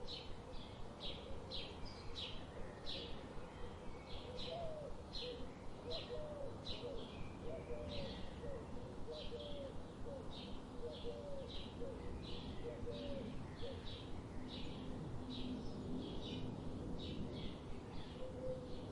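Birds chirping: a steady series of short, high chirps, about two a second, with lower warbling notes joining in for several seconds in the middle.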